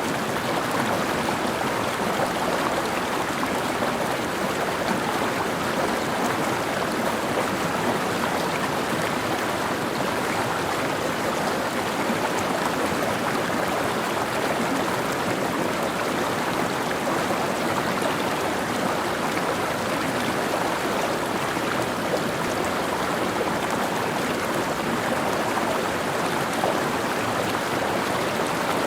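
Mountain stream running over rocks: a steady, even rush of water with no change.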